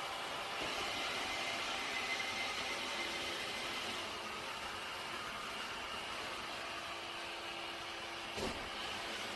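iRobot Roomba Combo j5 robot vacuum running: a steady whirring hum with a faint higher tone. A low steady tone joins about three seconds in, and there is a single short knock near the end.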